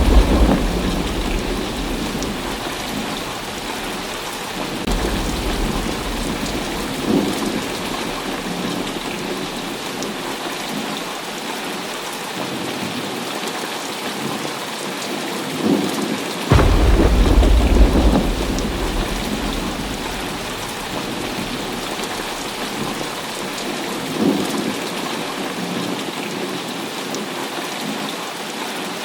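Heavy rain falling steadily with thunder rumbling. One peal is fading at the start, and another, the loudest, breaks suddenly just past halfway and rolls away over several seconds.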